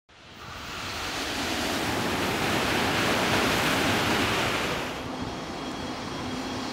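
Hitachi Class 395 Javelin electric train approaching on the tracks: a rushing noise that fades in, swells to its loudest about three to four seconds in, then eases. A steady low hum and a faint high whine carry on after that.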